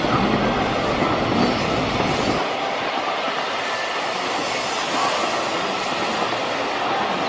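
Freight train running past on the rails, a steady loud rumble and clatter of wheels on track. The deep rumble cuts off suddenly about two and a half seconds in, leaving a lighter rattle and hiss.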